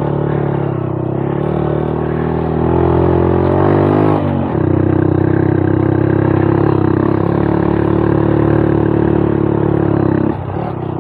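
Freshly rebuilt Honda Monkey 125's single-cylinder four-stroke engine running under load on a climb. The revs rise for a couple of seconds, drop sharply about four seconds in, then hold steady until the throttle comes off near the end.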